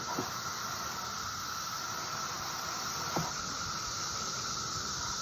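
Chorus of periodical cicadas: a steady, unbroken high drone, with two brief sweeping sounds about a fifth of a second in and about three seconds in.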